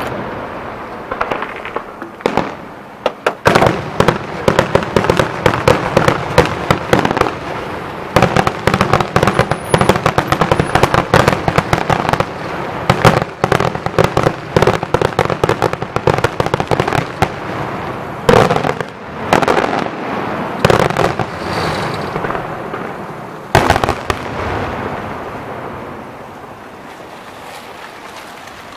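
Fireworks display firing a dense, rapid barrage of firecracker bangs, with a few louder single booms, thinning out and fading over the last few seconds.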